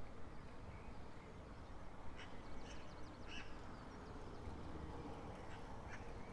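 A few short, harsh bird calls, spaced a second or so apart, over a steady low background rumble.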